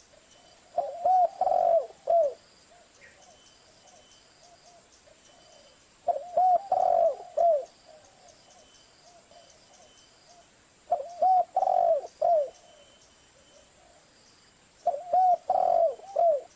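Spotted dove (tekukur) cooing: four calls of several arched coos each, repeated about every four to five seconds.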